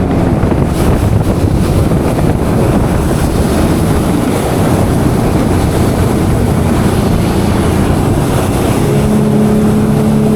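Jet ski engine running under way across the water, largely buried under a steady rush of wind on the microphone. About nine seconds in, the engine's steady hum comes through clearly.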